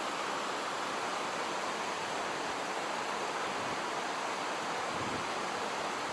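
Mountain stream water rushing over rocks: a steady, even hiss of flowing current.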